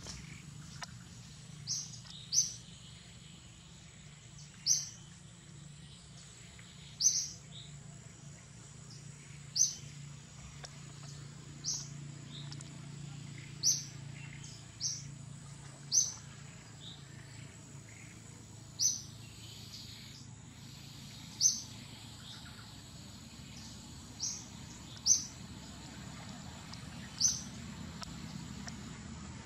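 A bird repeating one short, high chirp every one to three seconds, about fourteen times.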